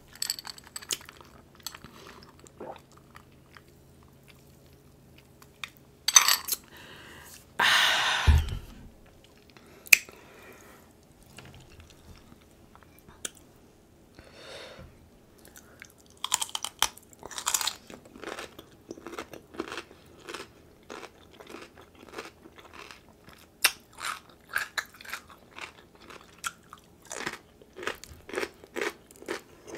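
Close-miked chewing and crunching as cucumber and king crab meat dipped in seafood boil sauce are eaten, with a few louder bites along the way.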